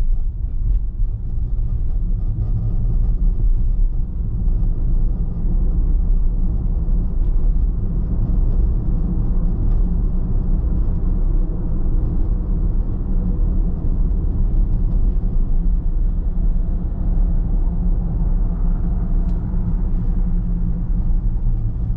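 A car driving steadily, with a constant low rumble of engine and road noise.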